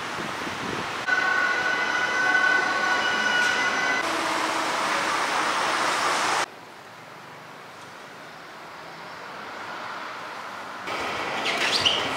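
City street and station ambience, cut together in abrupt segments. About a second in, a steady high-pitched squeal sounds for about three seconds over traffic noise.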